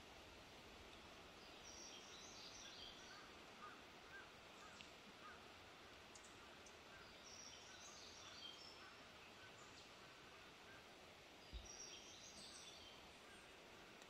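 Faint forest ambience with a songbird singing short high chirping phrases three times, about five seconds apart, over fainter chirps. A single soft low bump comes shortly before the last phrase.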